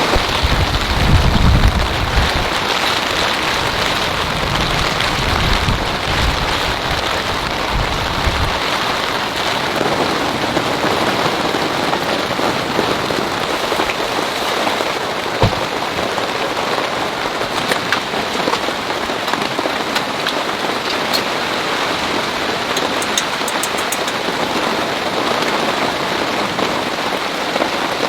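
Heavy rain falling steadily, with a low rumble through the first eight seconds or so and a few sharp drip-like clicks later on.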